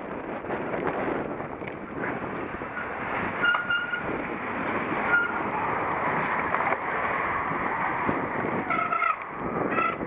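Wind rushing over the microphone and tyres rolling over the course as a cyclocross bike is raced, with a few short high squeaks.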